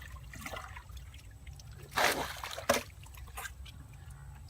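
Water trickling and splashing, with one louder splash about two seconds in and a short sharp splash shortly after.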